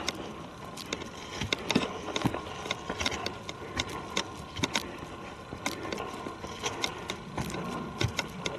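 Footsteps on a forest trail, crunching on dry debris with irregular sharp snaps and clicks, several a second.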